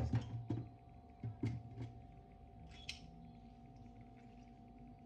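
Several light knocks and clatters of things being handled in a kitchen, most of them in the first two seconds and one more about three seconds in, over a steady faint hum.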